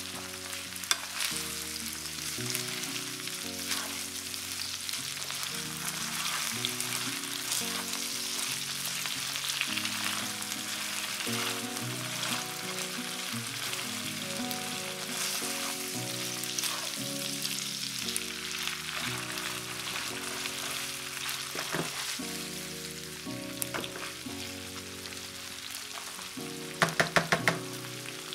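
Corned beef, diced potatoes and onion sizzling in oil in a non-stick frying pan, stirred and scraped with a wooden spatula. A quick run of about five sharp taps near the end.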